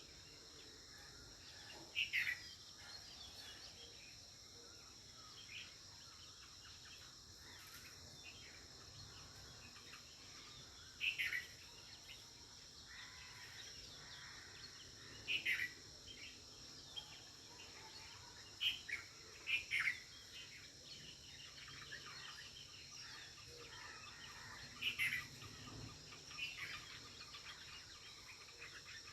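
Birds giving short, sharp, falling chirps every few seconds, over a steady high drone of insects.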